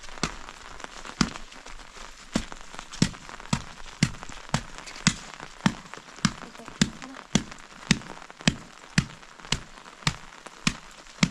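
Rainwater dripping in heavy, sharp drops at a fairly even pace of about two a second, over a steady hiss of rain.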